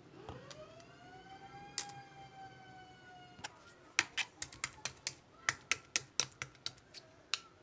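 Slime being pressed and worked by hand, giving a fast, irregular run of sharp popping clicks. Before the clicks, a single pitched tone rises and then holds for about three seconds.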